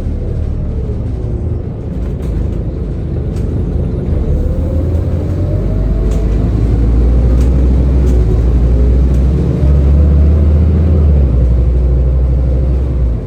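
Scania N230UD bus engine and ZF automatic gearbox accelerating. The engine and transmission note rises and grows louder over the first ten seconds, with a sudden step up in the low rumble about ten seconds in.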